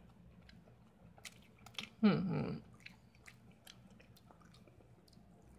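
A person chewing a mouthful of frosted cupcake, with small wet mouth clicks throughout. About two seconds in, a short voiced hum from the eater, lasting about half a second, is the loudest sound.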